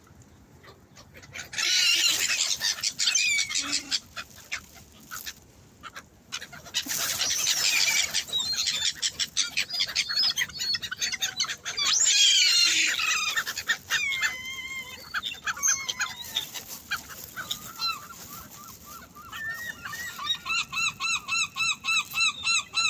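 A flock of gulls and other waterbirds calling over each other, many high overlapping calls in loud bursts. Near the end comes a run of short calls repeated at an even pace.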